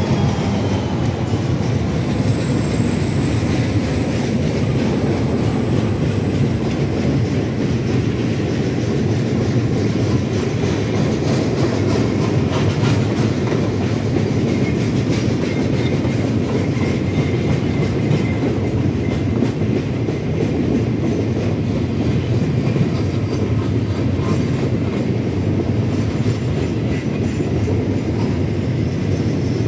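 RJ Corman freight train rolling past steadily, the locomotives first and then a long run of empty flatcars: a continuous rumble of steel wheels on rail with clickety-clack over the joints. A thin, high whine dips slightly in pitch in the first few seconds and fades out by about eight seconds in.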